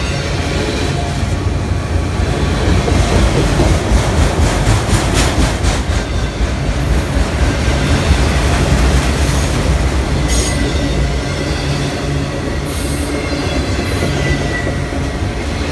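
Freight train of autorack cars passing close by at speed: a loud, steady rumble and rattle of steel wheels on the rails, with a few sharp clicks over the rail joints.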